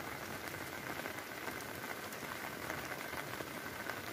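Rain falling in a steady patter, many small drops tapping.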